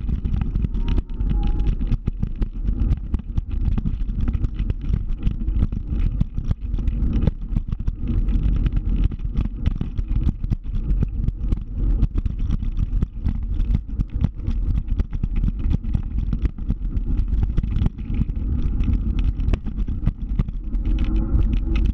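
Scooter being ridden, its engine running steadily under continuous road and wind noise.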